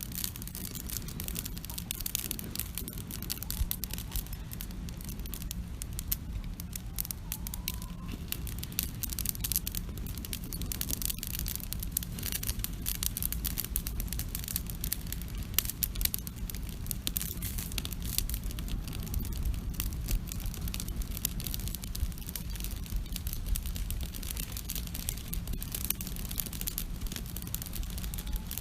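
Wood campfire crackling and popping with dense, irregular snaps, over a steady low rumble.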